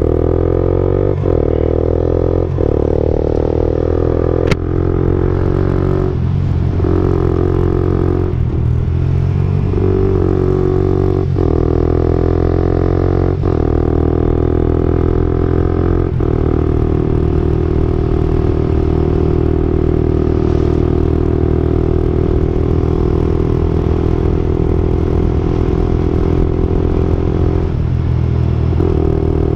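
Suzuki GSX-R125's single-cylinder engine running through an aftermarket slip-on exhaust, a steady exhaust note. In the first half it is broken by short clicks and dips every second or two, then it holds even until it changes near the end.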